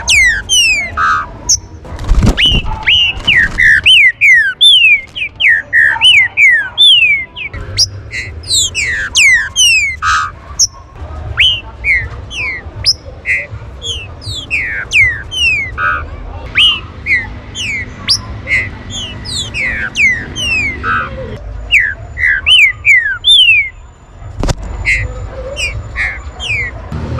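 Green-winged saltator (trinca-ferro) calling: a rapid, continuous run of short whistled notes, each sliding down in pitch, several a second, over a low background rumble.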